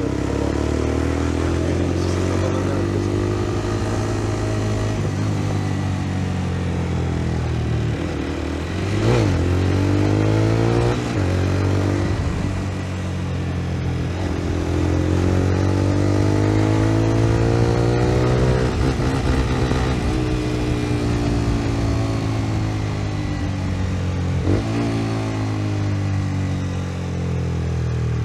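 125 cc single-cylinder motorcycle engine under way, its pitch climbing and falling in long pulls as it accelerates and eases off, with brief breaks where gears change, three times.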